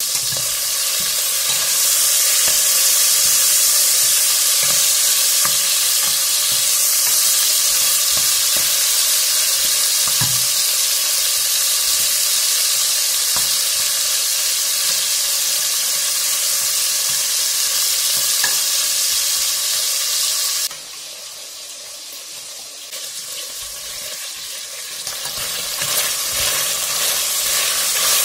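Chicken pieces sizzling as they fry in oil in a stainless steel pressure-cooker pot, stirred with a wooden spoon. About 21 seconds in the sizzle drops suddenly much quieter, then builds back up, with chopped red pepper now frying along with the chicken.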